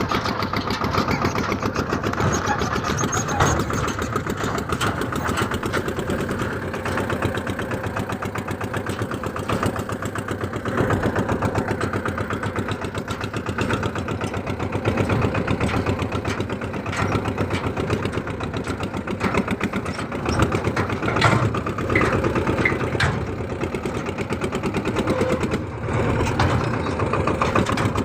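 Massey Ferguson tractor engine running steadily, with a fast, even beat of firing pulses.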